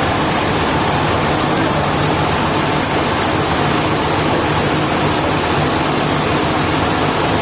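Sawmill machinery running steadily: a loud, even noise over a low motor hum.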